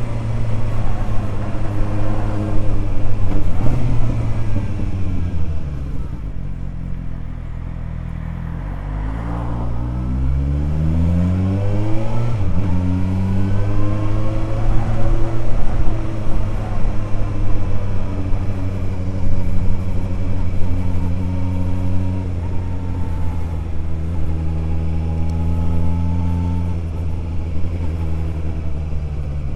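Suzuki GSR 750's inline-four engine through an aftermarket Ixrace Z7 exhaust while riding. The revs fall away for a few seconds, then climb steeply and drop suddenly in a quick upshift about twelve seconds in, before settling to a steady cruise with small rises and falls in pitch.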